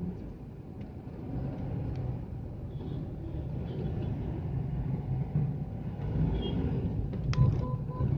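Steady engine and road rumble of a Hyundai Xcent car driving. Near the end a click is followed by a rapid, even beeping.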